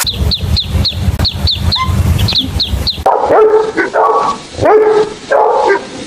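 Baby chicks peeping: a quick run of high, short, downward-sliding peeps, several a second. About halfway through this gives way to a dog barking, a string of short barks.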